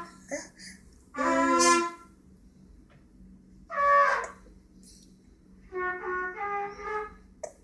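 A baby's voice: a long held squeal about a second in, a shorter cry falling in pitch around four seconds, then a run of short babbled syllables near the end.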